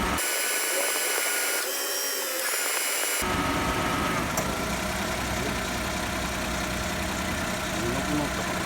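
Car engine idling steadily. For about three seconds near the start, the low rumble drops out and a high whine stands out.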